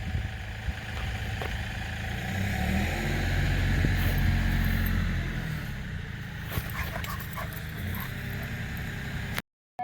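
A dog barking a few short times over a low, steady engine rumble.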